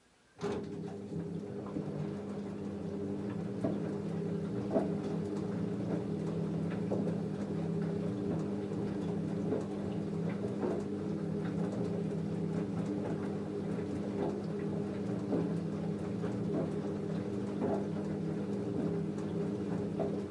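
LG F10A8HDS5 front-loading washing machine: a steady electrical hum switches on abruptly about half a second in, with scattered small clicks and patter of water over it, and cuts off abruptly at the end.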